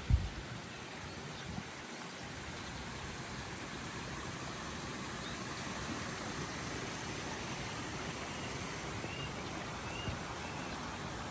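Steady rushing outdoor ambience, like flowing water or wind, with a low thump right at the start and a few faint short chirps.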